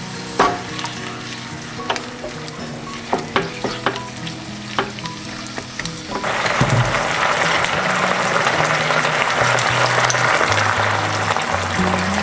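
Onions and capsicum sizzling in sauce in a non-stick pan, with scattered sharp pops and ticks at first. About six seconds in, the sizzle turns suddenly louder and denser as the vegetables are stirred with a spatula.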